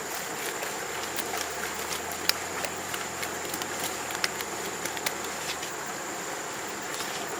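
A steady thin high-pitched tone over a noisy outdoor background, with scattered light clicks and taps.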